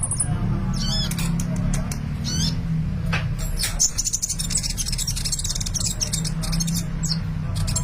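Sunbird (the Indonesian caged 'kolibri') in full song: a rapid run of high, thin chirps and twitters, with a steady low hum beneath.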